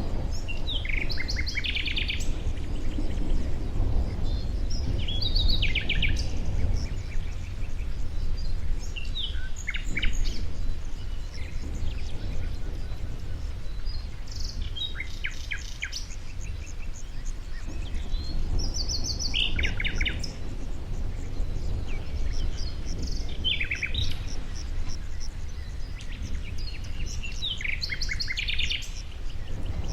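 Songbirds singing short, quick trilled phrases, one every three to five seconds, over a steady low rumble.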